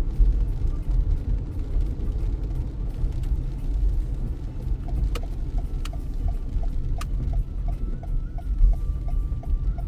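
Steady low rumble of a car driving on wet city streets in heavy rain, heard from inside the car. About halfway through, a turn-signal indicator starts ticking, a little over two ticks a second, with a few sharper clicks among the first ticks.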